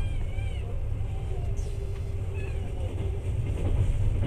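Steady low rumble of a passenger train running along the track. A few short, high-pitched wavering sounds are heard over it near the start and again about halfway through.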